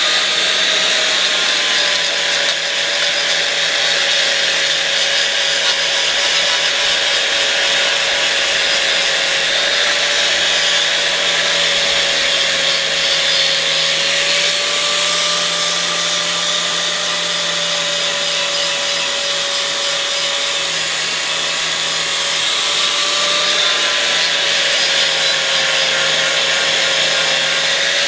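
Angle grinder spinning up and then running steadily against steel, its motor tone wavering slightly as it is pressed into the work, over a loud hiss of grinding.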